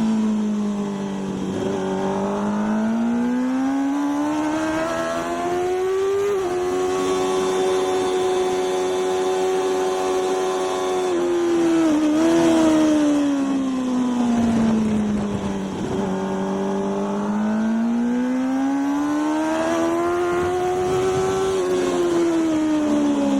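Racing motorcycle engine at full lap pace, heard onboard: the revs climb and fall smoothly through the corners, hold steady for several seconds in the middle with a brief dip, then rise and fall again. A steady rush of wind noise runs under it.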